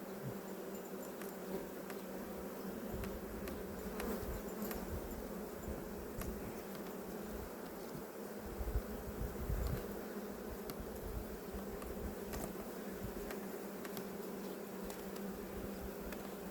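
Honeybees buzzing around an opened hive during a frame inspection: a steady hum of many bees, with a few low bumps around the middle.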